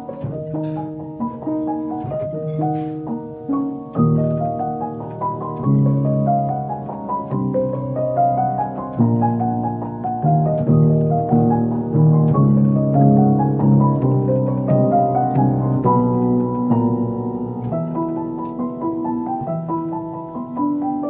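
Solo piano playing: a short repeating melody over bass notes, then from about four seconds in a series of rising arpeggios, each run climbing upward over sustained low notes.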